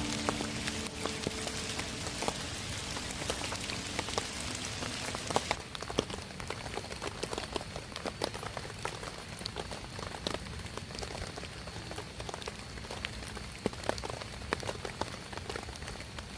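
Rain falling: a dense, even hiss for about the first five seconds, then it thins to many separate drops pattering and ticking on a surface.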